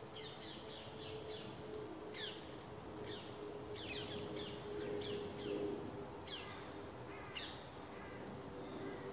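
Wild birds chirping outdoors: a series of short, quickly falling calls repeated every half second or so, over a faint steady hum.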